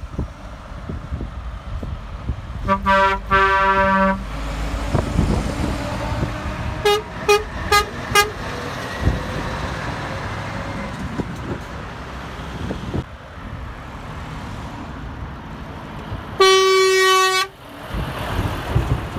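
Trucks passing with a steady engine and road rumble while their drivers sound their horns: a double blast, then four quick toots a few seconds later, and a single loud blast of about a second near the end.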